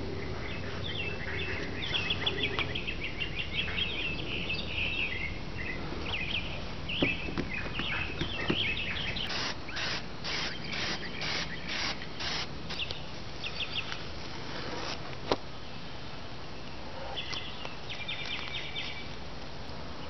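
Wild birds chirping and calling outdoors. About halfway through comes a quick run of about ten sharp strokes, roughly three a second, and there are a couple of single sharp clicks.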